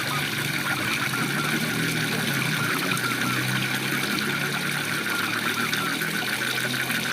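Waterfall rushing steadily, with a continuous chorus of frogs calling in fast, even pulses and a low drone underneath.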